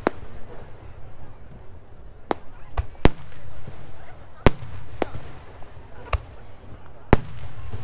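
Aerial firework shells bursting overhead: about eight sharp bangs at uneven intervals, the loudest about three and seven seconds in.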